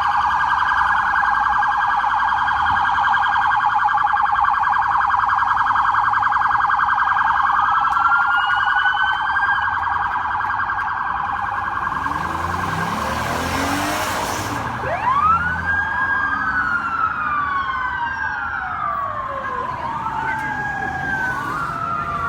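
Police car sirens. A fast, steady warbling tone is joined about a third of the way in by rising-and-falling wails, and in the second half several wails overlap. A loud rushing noise sweeps through the middle for about two seconds.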